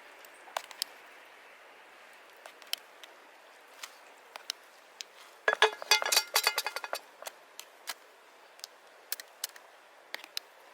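Wood campfire crackling: scattered sharp pops over a faint steady hiss, with a quick flurry of louder crackles a little past the middle.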